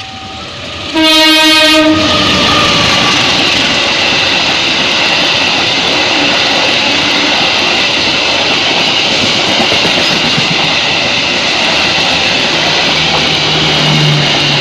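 A diesel locomotive's horn sounds one blast of about a second, then the train passes the level crossing at speed, a loud steady rush of wheels on rail.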